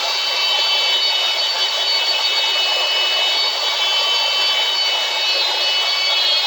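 Electric hand drill running steadily at speed: a high motor whine with a rough hiss underneath, unbroken throughout.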